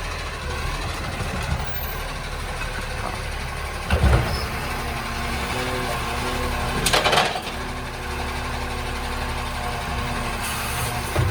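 Recycling garbage truck's diesel engine running steadily, with a short thump about four seconds in and a brief hiss of air about seven seconds in.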